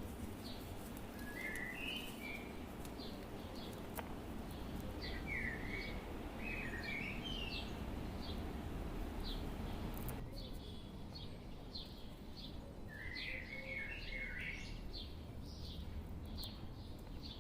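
Birds chirping: short high chirps repeat over and over, with a few quick warbling phrases in between, over a steady low background noise.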